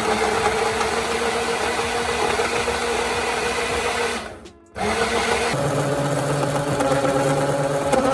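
Electric blender motor running, stopping for half a second about four and a half seconds in, then starting again at a different pitch and cutting off at the end.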